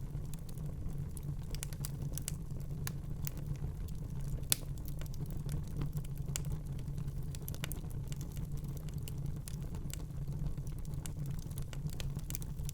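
Fire crackling in a fireplace: irregular small pops and snaps over a low, steady rumble, with one sharper pop about four and a half seconds in.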